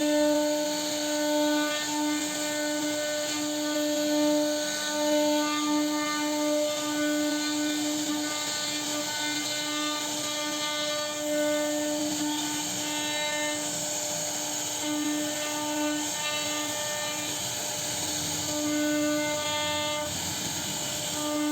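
CNC router spindle cutting wood: a steady whine with overtones that swells and fades as the cut goes on, faltering briefly about three-quarters of the way through.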